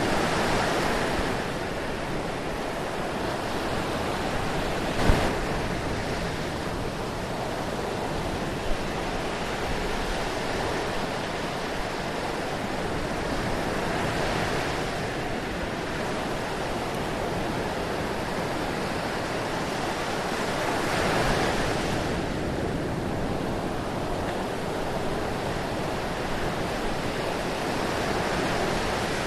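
Steady rush of water that swells and eases every several seconds, with a short sharp click about five seconds in and another fainter one near nine seconds.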